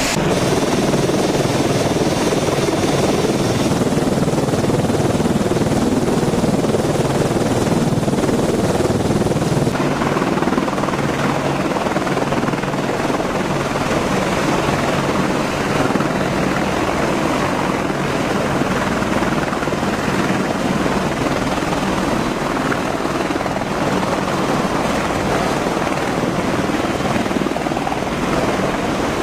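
AH-64 Apache attack helicopter's rotor and engines running steadily, a dense unbroken drone heavy in the low and middle range.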